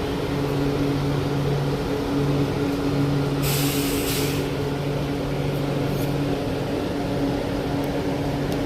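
Steady low hum of an idling vehicle engine, with a short burst of air hissing about three and a half seconds in.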